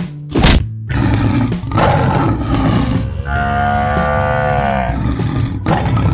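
Lion roar sound effect: a long growling roar whose pitch falls near the middle, over background music. A short loud hit comes about half a second in.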